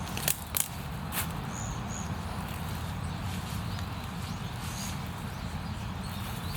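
Woodland ambience over a steady low rumble: a few sharp snaps or clicks in the first second or so, then three short, high chirps from a small bird, two close together and one a few seconds later.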